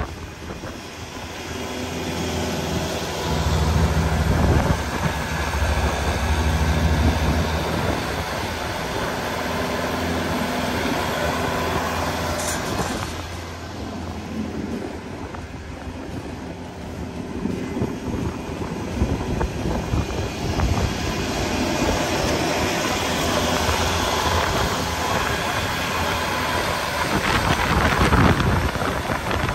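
Kubota tractor's diesel engine running under load while pushing snow, its note strongest a few seconds in, with heavy wind buffeting the microphone.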